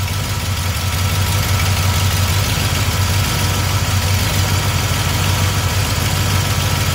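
Carbureted small-block Chevy V8 idling steadily, its distributor being turned to advance the ignition timing from 4 degrees back toward 8.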